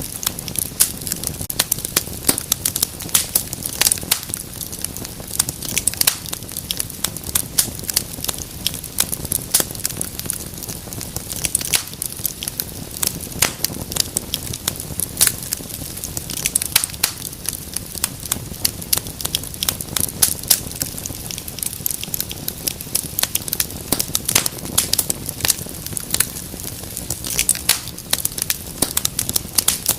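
Wood fire in a fireplace crackling: dense, irregular sharp pops and snaps over a steady low rumble of the flames.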